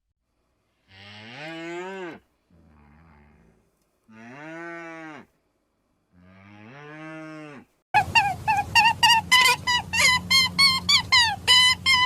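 A cow mooing: three long moos, each rising and then falling in pitch, with a short, faint low grunt between the first two. About eight seconds in, a fast run of short high calls starts, several a second, over a steady low hum.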